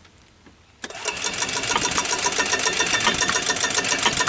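The 1993 Club Car gas golf cart's single-cylinder engine being cranked by its starter, a fast even mechanical pulsing that starts suddenly about a second in, without catching: the engine is not drawing gas through its clogged carburetor.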